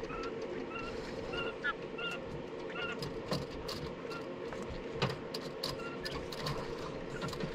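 Young Phoenix quail chicks giving soft, short chirps again and again, with scattered sharp clicks and a steady low hum underneath.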